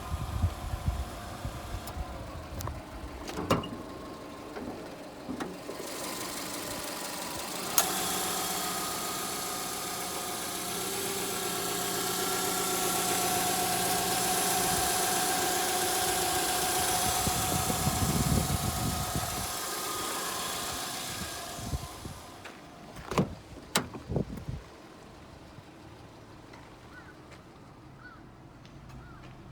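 Subaru Forester's EJ20 flat-four engine running for about fourteen seconds, starting with a sharp click after a few seconds of scattered clicks, then dropping away. A few sharp clunks follow.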